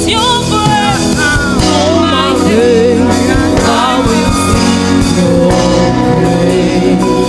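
Gospel worship band playing live, with steady held chords under a lead melody line that bends and runs quickly.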